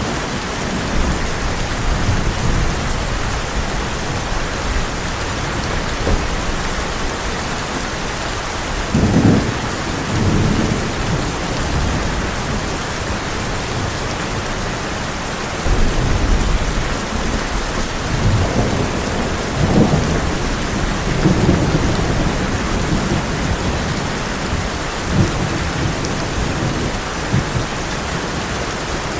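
Heavy rain drumming steadily on a tin roof, with rolls of thunder rumbling in again and again: low swells about nine seconds in, around sixteen, and several more from about eighteen to twenty-seven seconds.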